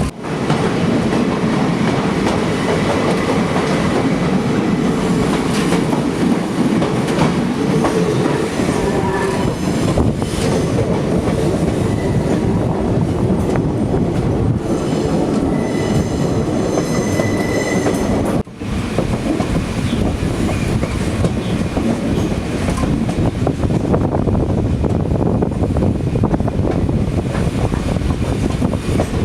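Passenger train in motion, its wheels clattering over the rails, with thin high wheel squeals for a few seconds past the middle. The sound drops out briefly just after that.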